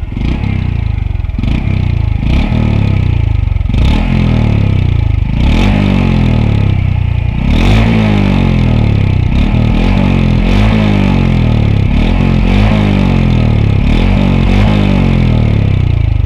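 Honda CT125's single-cylinder engine through its stock exhaust, revved over and over: the pitch rises and falls back roughly once a second, the revs held higher and busier in the second half.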